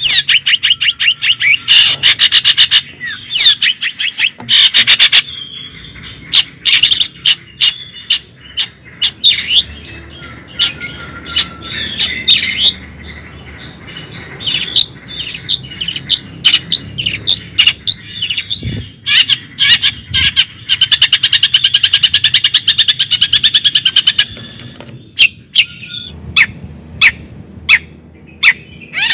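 Birds chirping and calling, loud and close, with long bursts of very fast, rapidly repeated high notes between single sharp chirps.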